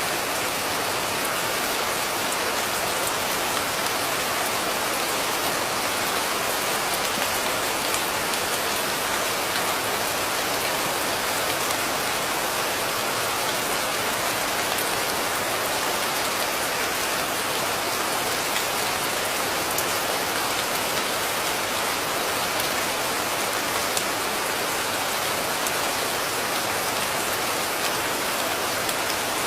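Steady rain falling: an even, unbroken hiss with fine ticks of individual drops, no thunder.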